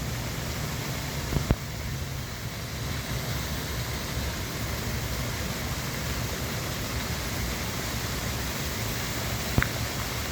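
Steady rushing of water falling in an outdoor waterfall-style fountain, an even wash of noise, with two brief faint clicks, one about a second and a half in and one near the end.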